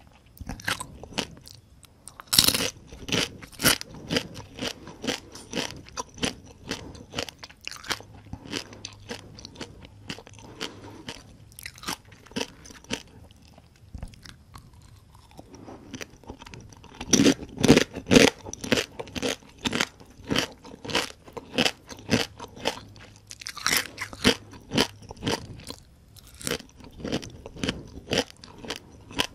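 Close-up crunching and chewing of whole crispy-fried small rice-field crabs, their shells and legs cracking in rapid sharp crunches. The louder bites come a couple of seconds in and again about two-thirds of the way through.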